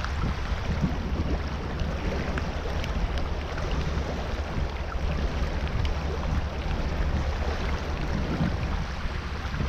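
Steady rush of water with wind rumbling on the microphone and a few faint ticks.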